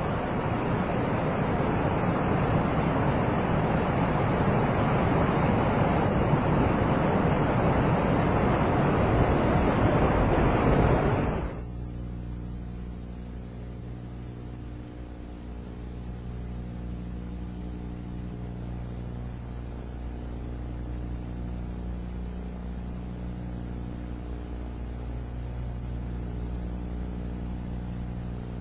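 A steady rushing noise that grows slightly louder and then cuts off suddenly about eleven seconds in. It gives way to a quieter, steady low hum of several held tones.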